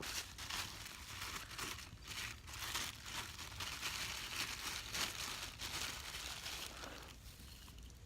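Lemongrass leaves being crumpled and torn by hand, an irregular papery crackling and rustling.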